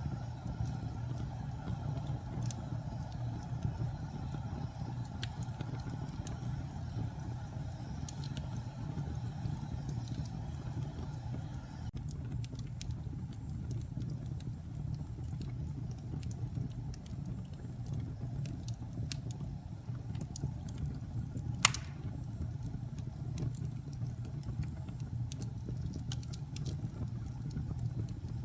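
Wood fire burning in a fireplace: a steady low rumble of flames with scattered crackles, and one sharper pop about three-quarters of the way through.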